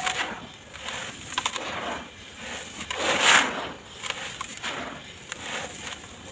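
Dry sand-cement blocks being crushed and crumbling in a tub: gritty, crackly crunching in uneven bursts, the loudest a little past three seconds in.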